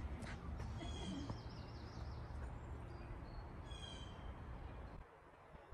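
Several birds chirping and calling in a pine forest, short high notes and a quick run of repeated chirps, over a faint low rumble of outdoor background noise. The rumble drops away about five seconds in.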